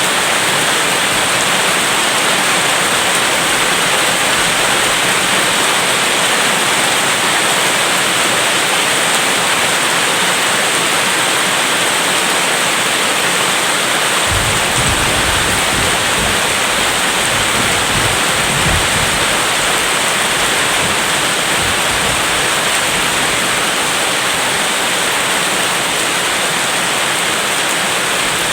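Steady rain falling, an even hiss. About halfway through, a low rumble of distant thunder rolls for several seconds, then fades back under the rain.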